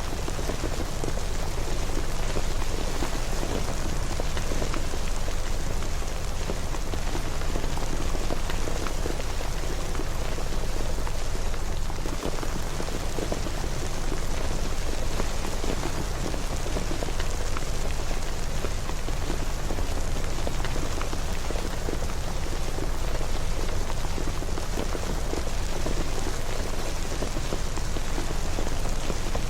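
Steady rain falling and pattering on surfaces, a continuous even hiss full of small drop ticks over a low rumble.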